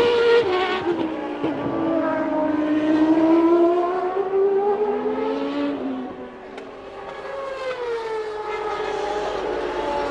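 Naturally aspirated 3.5-litre Formula One car engine at racing revs. The note climbs steadily for several seconds, falls away with a dip around six seconds in, then picks up and falls again, as the car accelerates and lifts.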